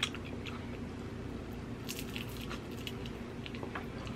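Close-miked wet chewing and lip-smacking on a rotisserie chicken drumstick coated in cheese sauce: scattered squishy mouth clicks, with a denser cluster about two seconds in as she bites into the leg again.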